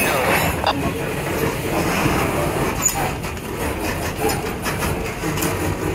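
Covered hopper freight cars rolling slowly past on a yard track: steel wheels running on the rails with scattered clicks and knocks, and a brief high squeak about three seconds in.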